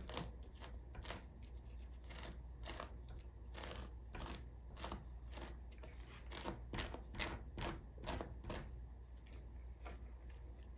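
Plastic cast-iron skillet scraper scraping fat from the underside of raw chicken skin: a quick, irregular series of short, faint scratchy strokes under even pressure.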